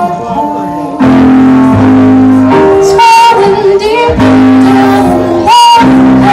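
Live band music with singing and guitar, made of long held notes; it is a little quieter for the first second.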